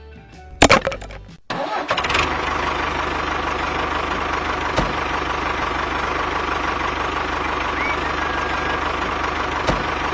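A sharp loud knock about half a second in, then from about a second and a half a small engine running steadily at an even, fast beat.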